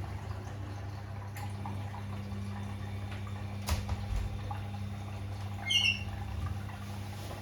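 Bosch Classixx 6 washing machine running with a steady low hum, two light clicks, and a brief high squeak about three-quarters of the way through.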